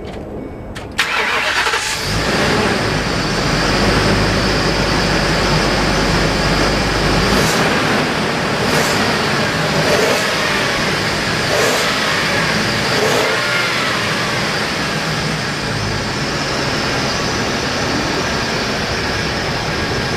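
2009 Ford Econoline shuttle bus engine cranking and catching about a second in, then running, blipped briefly several times with the throttle before settling back.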